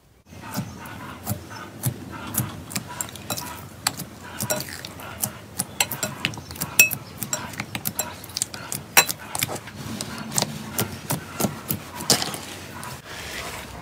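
Slime being squeezed and pressed by hand, with many irregular sharp clicks and pops.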